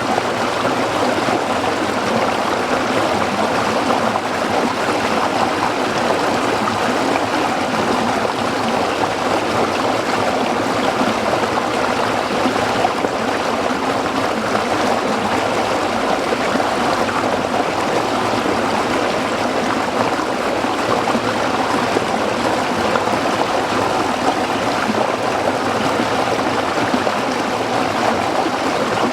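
Small stream of water flowing and trickling over rocks, a steady, even babbling.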